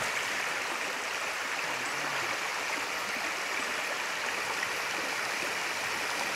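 Shallow stream running steadily over a low rocky ledge in small cascades.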